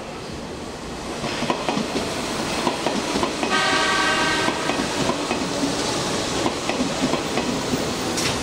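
Hanshin electric train running at the station, its wheels clicking over the rail joints and growing louder after about a second. About three and a half seconds in, a brief horn blast of about a second sounds over the rumble.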